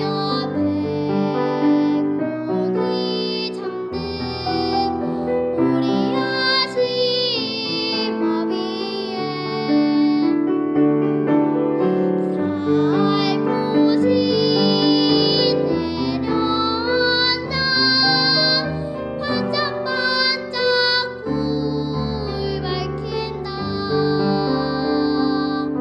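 A child singing a Korean children's song (dongyo) solo, holding notes with a wavering vibrato, over an instrumental accompaniment.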